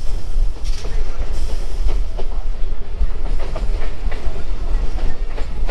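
Electric suburban local train running along the track, heard from its open doorway: a steady heavy rumble with the wheels clacking irregularly over rail joints.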